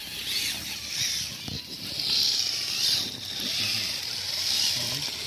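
Radio-controlled scale crawler truck driving, its small electric motor and gears whining and easing off several times as it works over the terrain.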